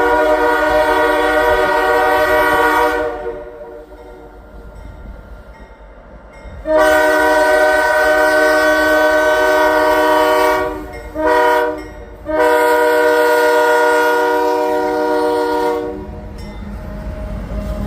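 A locomotive's multi-chime air horn sounding the grade-crossing signal: the tail of a long blast, then a long, a short and a long, with the low rumble of the approaching freight train rising near the end.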